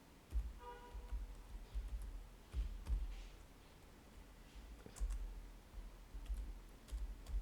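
Typing on a computer keyboard: irregular keystrokes, each a short click with a low thump.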